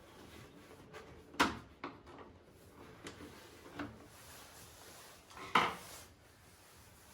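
Hard parts and tools being handled and set down while the robot mower is taken apart: several knocks and clatters, the loudest about one and a half and five and a half seconds in, with quieter rubbing between.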